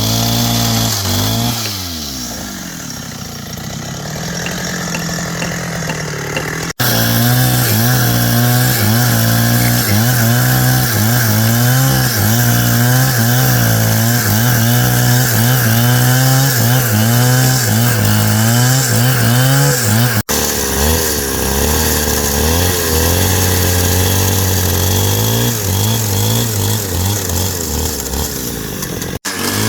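Small petrol-engine power tool, chainsaw-type, running under load as it works wood. The engine speed wavers continuously. It sags about a second and a half in, runs high from about seven seconds, and settles to a lower speed after about twenty seconds, with three brief, abrupt cut-outs.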